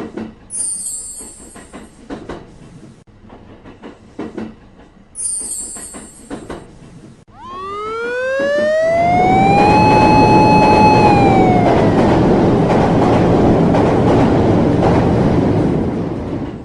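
Train passing: a whine rises in pitch, holds, then falls, over a rumble of rolling wheels that builds about eight seconds in and fades near the end. Before it come scattered light clicks and two short hisses.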